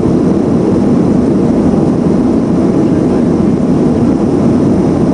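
Steady, even engine and airflow noise of a Boeing 737-400 in flight after take-off, heard as the deep cabin drone of its CFM56-3 turbofans.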